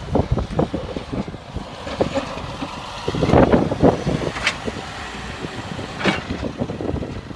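International snowplow truck running, with irregular knocks and clanks throughout and a louder stretch of clatter around the middle.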